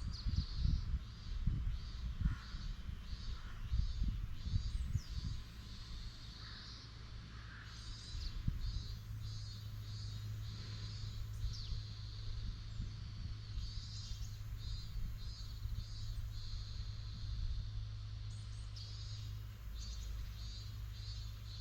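Outdoor ambience of birds calling: short high calls repeated again and again, with a few lower crow caws in the first half. Beneath them runs a low rumble that settles into a steady hum.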